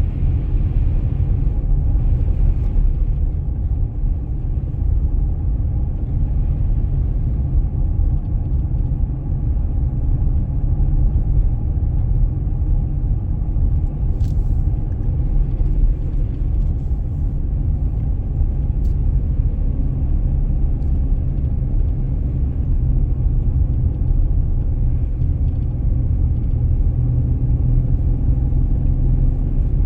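Car driving on a snowy road: a steady low rumble of engine and tyres, with a few faint clicks.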